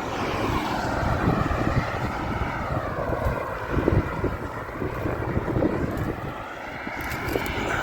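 Strong wind buffeting the microphone on a bicycle ride, mixed with the rushing noise of road traffic going past.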